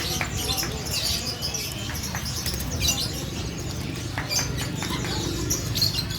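Many caged songbirds chirping and twittering in short scattered calls, with now and then a flutter or click, over a steady low background rumble.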